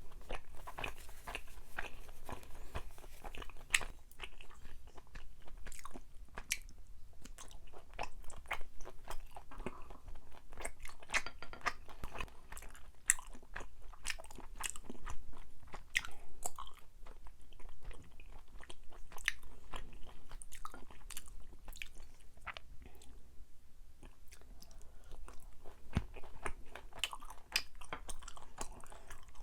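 Close-miked chewing of sticky, chewy Korean rice cake (tteok), with many irregular wet mouth clicks and smacks.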